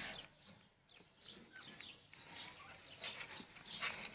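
Faint, scattered chirps of cage birds, a little louder near the end.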